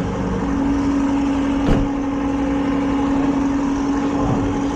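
Car engine idling steadily, with a single brief click under two seconds in.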